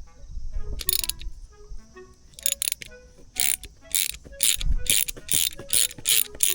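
A hand tool worked against metal or the hull in quick, even rasping strokes, about two a second, with a few separate strokes first.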